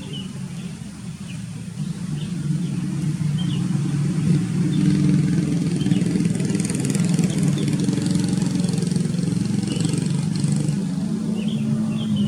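A motor engine running steadily, a low hum that grows louder over the first two seconds and then holds level. Faint short bird chirps come through over it now and then.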